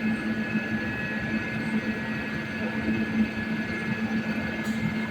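Electric locomotive of a train humming steadily, with a constant high whine over a low hum and rumble.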